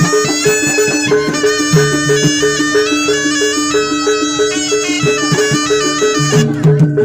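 Live Jaranan gamelan music: a shrill reed melody, typical of the slompret shawm, winds over a fast, evenly repeating two-note pattern from the percussion, with drum strokes underneath.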